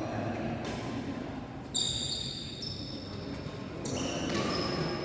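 Badminton rally: the shuttlecock is struck by rackets three times, each a sharp hit with a brief high ring after it, about one to two seconds apart.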